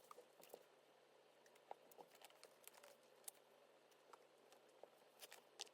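Faint, scattered light clicks and taps from small-scale craft handling: stickers, paper and plastic binder pages being picked up, peeled and pressed down.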